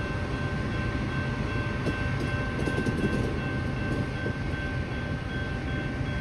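Train running: a steady rumble with several steady high tones held over it.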